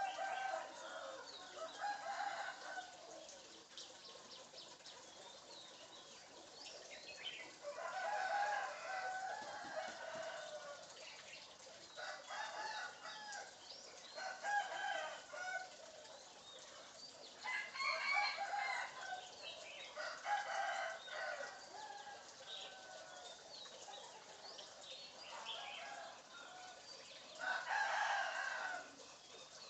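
Bird calls that sound like a chicken clucking and crowing, coming in short bursts every few seconds.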